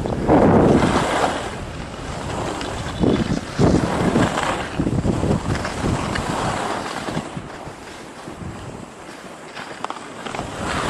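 Strong wind buffeting the microphone in blizzard conditions: a gusting rumble and rush that surges and eases, a little calmer near the end.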